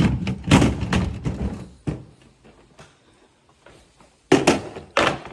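Refrigerator freezer drawer being handled: a rolling rumble with knocks as it slides, one sharp knock just before two seconds in, then three hard thuds near the end.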